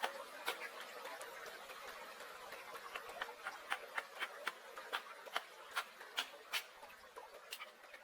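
A series of sharp taps or knocks, about two to three a second and fairly regular, over a steady hiss.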